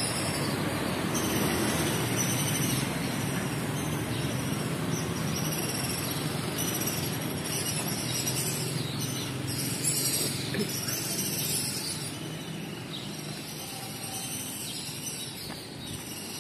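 Passenger train running along the track, a steady rumble of wheels on rails that grows quieter in the last few seconds, with high chirping above it.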